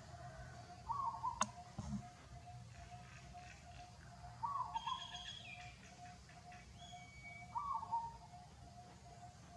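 Birds calling: a short call repeats about every three seconds over a steady pulsing trill, with a few higher whistles about halfway through. A single sharp click comes about one and a half seconds in.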